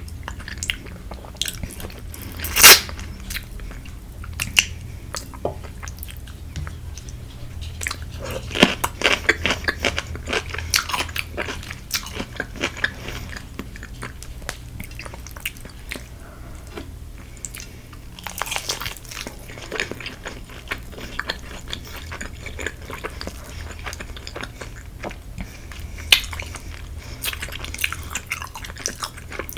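Close-up crunching, biting and chewing of crispy Korean fried chicken, many sharp crackly crunches, the loudest about three seconds in and thick clusters a third of the way through and again near the middle.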